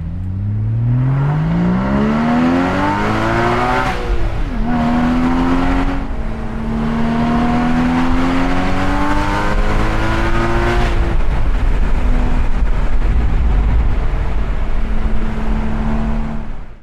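Porsche 981 Boxster Spyder's 3.8-litre naturally aspirated flat-six, heard from the open cockpit, revving hard under acceleration. The revs climb steeply, drop at an upshift about four seconds in, and climb again through the next gear. After another drop around eleven seconds the engine holds a steady note.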